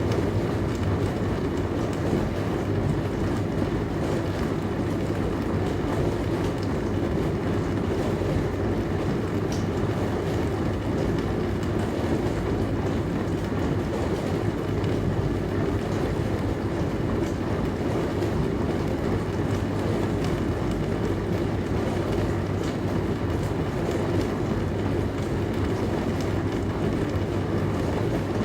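Dishwasher running: a steady low hum under an even rushing noise, with no change in level.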